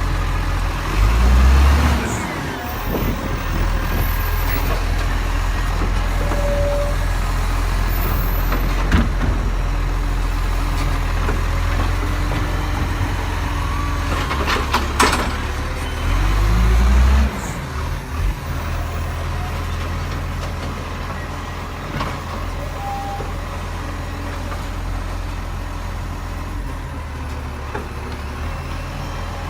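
Garbage truck engine running steadily, swelling louder twice for a second or so, with a sharp clank about halfway through.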